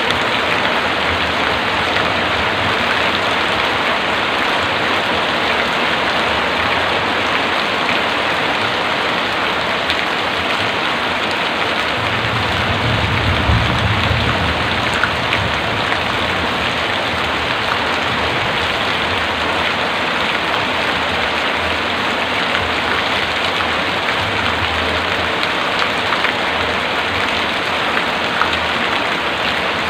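Heavy rain falling steadily, an even hiss of many drops on surfaces. About twelve seconds in, a low rumble swells briefly and fades.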